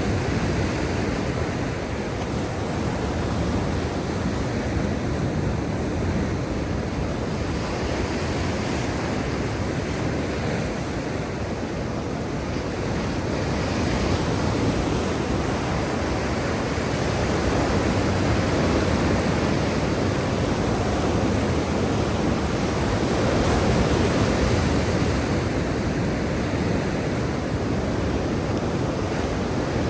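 Black Sea surf washing in continuously, a steady rush that swells and eases slowly as the waves come and go.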